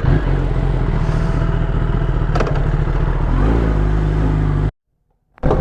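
Kawasaki ZX10R's inline-four engine running steadily with a rushing noise over it, a short change in pitch about three and a half seconds in; the sound cuts off suddenly near the end.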